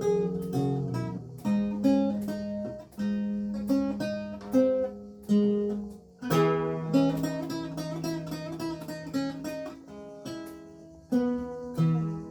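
Renaissance lute with gut strings played solo: a plucked melody moving over held bass notes, with fuller, louder chords struck about six seconds in and again near the end.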